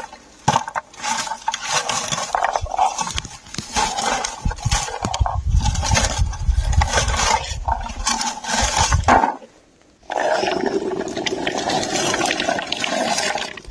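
Lingonberries being picked from low forest shrubs: leaves and twigs rustling and berries rattling loose, with a low rumble for a few seconds in the middle and a brief break about nine seconds in.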